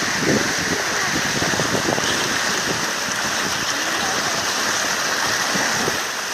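Steady rush of flowing water, with faint voices underneath.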